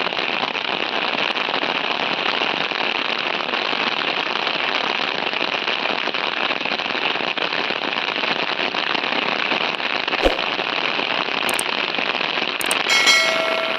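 Steady, loud hiss of water, with a few faint clicks in the last few seconds.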